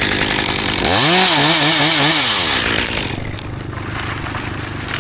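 Chainsaw cutting through a cherry stem at full throttle, its engine pitch wavering up and down as it labours in the cut. After about three seconds it eases off to a quieter, steady running.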